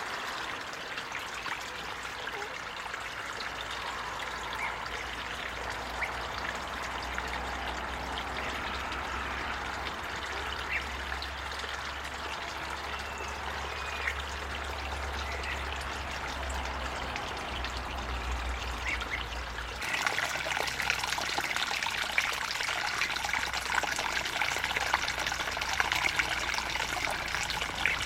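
Steady trickling of running water with small clicks, becoming louder and brighter abruptly about twenty seconds in.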